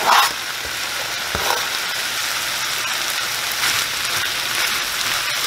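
Diced chicken breast sizzling in a hot skillet, a steady hiss. There is a brief louder flare at the very start as chopped green onions are scraped into the pan, and a few light clicks as tongs stir the pieces.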